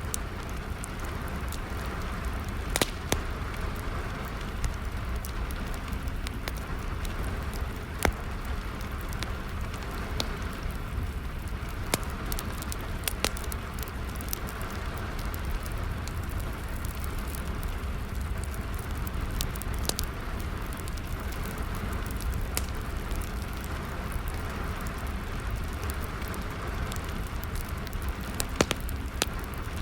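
Wood fire crackling with sharp irregular pops over the steady patter of rain.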